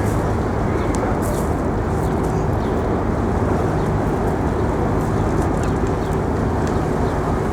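Steady outdoor background roar with no break in level, and a few brief high-pitched chirps over it.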